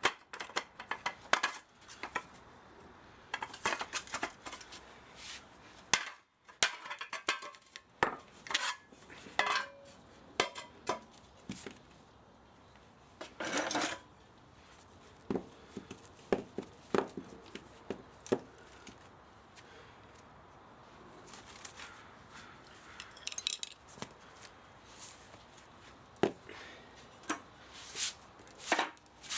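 Irregular metallic clinks, taps and knocks of hand tools and metal parts while an old spa motor is dismantled for scrap, with a short scrape about halfway through.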